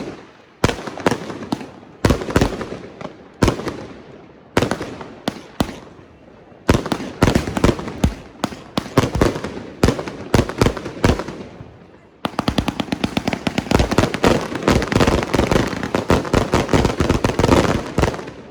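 New Year's Eve fireworks and firecrackers going off: irregular loud bangs, each with an echoing tail. About two-thirds of the way through, a dense rapid run of bangs starts and keeps up for about six seconds before stopping abruptly.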